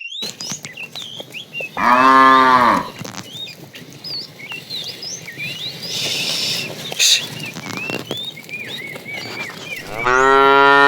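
Cow mooing twice: a short moo about two seconds in, and a longer one that starts near the end.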